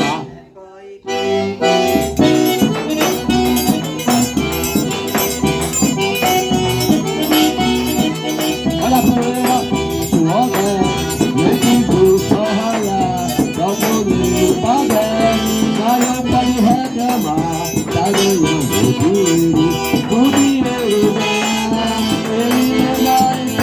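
Forró played on an eight-bass button accordion (sanfona de oito baixos), a lively melody over steady percussion, after a short drop in level right at the start.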